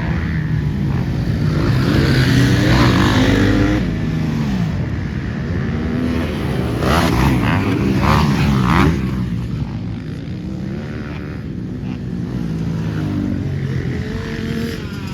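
Motocross dirt bike engines on the track, revving up and down through the gears, with louder swells a couple of seconds in and again around the middle as bikes come close.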